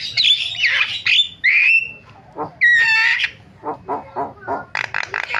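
Javan myna (jalak kebo) singing a busy, chattering song of harsh squawks mixed with whistled notes that slide up and down, then a fast run of short clicking notes. This is the varied 'isian' fill-in song the species is kept for.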